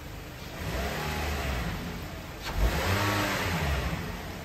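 Toyota Corolla's four-cylinder petrol engine revved twice while standing, the revs rising and falling each time, the second rev stronger than the first. The car is in for shaking and loss of power.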